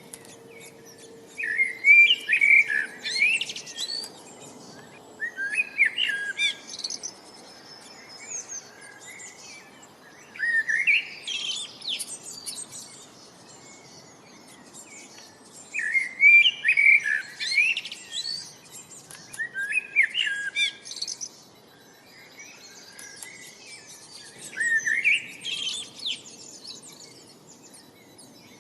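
A bird singing short, loud, twittering phrases, about one every four or five seconds, over a faint steady background hiss.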